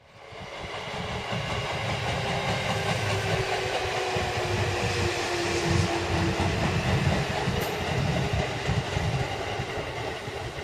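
Seibu Railway electric train running on the track: a steady rumble of wheels on rails that swells in over the first couple of seconds, with a faint motor whine that dips slightly in pitch midway.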